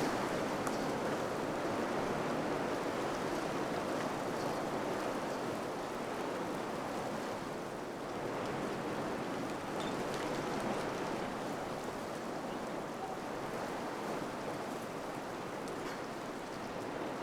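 Wind blowing: a steady rushing that slowly swells and eases in strength, with faint light ticks now and then.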